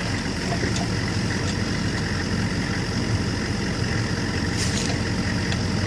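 Vehicle engine idling with a steady low drone, heard from inside a gun truck.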